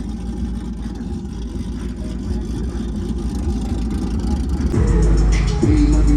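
A vehicle engine running with a low rumble that slowly grows louder. About five seconds in, bass-heavy music comes in over it.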